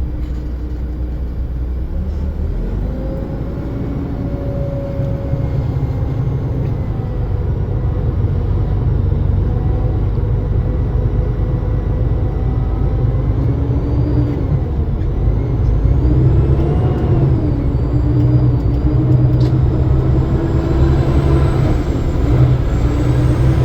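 Motor vehicle engine running with a steady low rumble, its pitch drifting up and down, amid road traffic.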